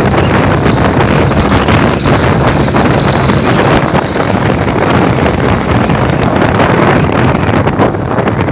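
Wind buffeting the microphone during a motorcycle ride, loud and steady, with vehicle noise underneath.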